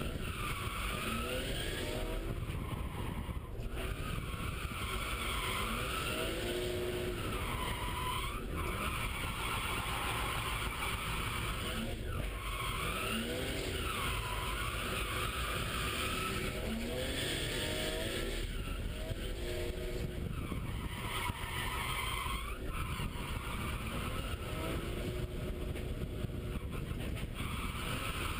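BMW E36 M3's straight-six engine revving hard and climbing again and again while drifting, with the tyres squealing through each slide, heard from inside the cabin.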